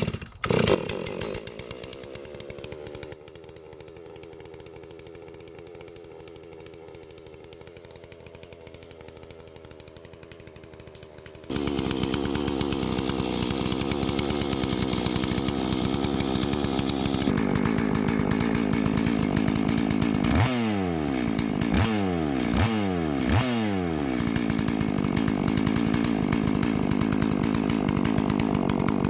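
Holzfforma G444 two-stroke chainsaw catching on choke at the very start and idling. About twelve seconds in it is run up to high speed, and a little past twenty seconds the revs dip and climb back several times before it runs on at speed.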